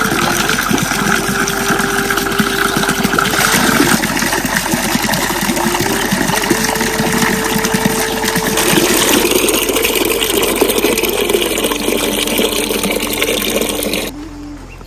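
Heavy rain pouring down, a loud dense hiss, with a slow tune of long held notes playing over it. The rain sound cuts off suddenly near the end.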